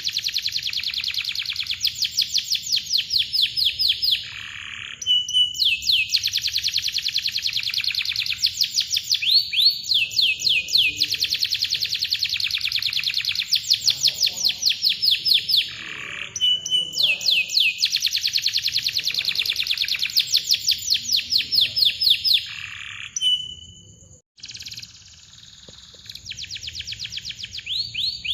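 Domestic canary singing long, tight rolls: fast runs of repeated chirping notes in phrases several seconds long, with short breaks between them and a brief drop near the end.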